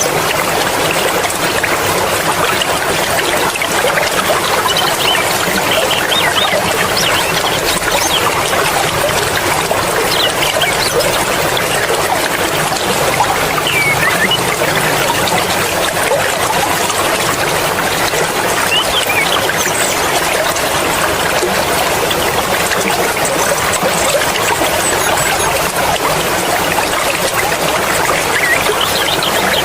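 Mountain stream water flowing and splashing over rocks: a steady, unbroken rush with small trickles and splashes through it.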